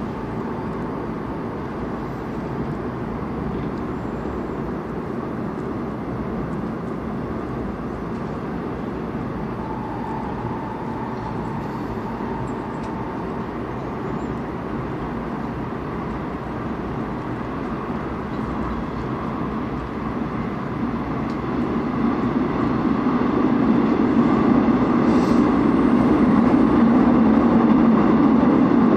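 Airport Railroad express train running, a steady rumble heard from on board that grows louder about three-quarters of the way through.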